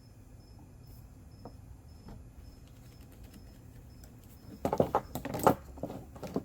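A cricket chirping faintly and steadily, then about four and a half seconds in a short burst of clattering and knocking as parts of the light are picked up and handled.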